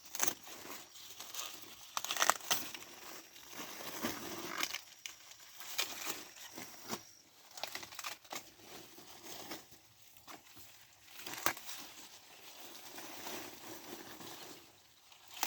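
Dry corn leaves and husks rustling and crackling as ears of corn are handled and snapped off the stalks, with irregular sharp snaps, a few louder ones about two seconds in and near the end.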